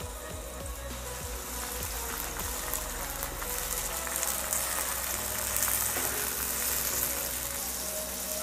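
Freshly added chopped tomatoes and onions sizzling in hot oil in a non-stick pan while a slotted spatula stirs them. The sizzle grows louder about two seconds in.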